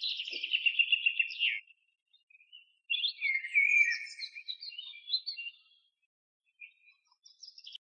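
A small bird singing: a rapid chirping trill about a second and a half long, then a longer, more varied twittering phrase, and a few faint chirps near the end.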